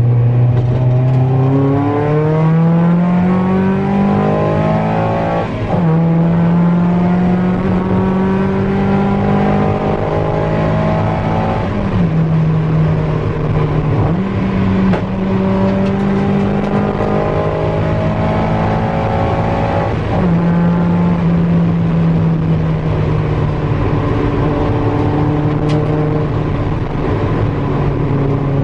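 Mazda MX-5's four-cylinder engine on individual throttle bodies, heard from inside the cabin, accelerating hard through the gears with loud induction noise at high rpm. Its pitch climbs and then drops at each of several gear changes.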